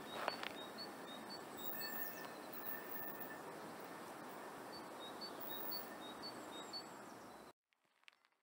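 A small bird calling repeatedly in short, high notes, about two a second, over faint steady outdoor background noise, with a single click just after the start. The sound drops out to silence for about a second near the end.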